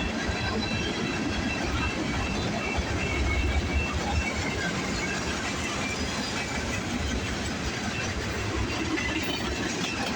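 Freight cars of a long manifest train rolling past, a steady rumble and clatter of steel wheels on rail, with a faint high squealing tone over it.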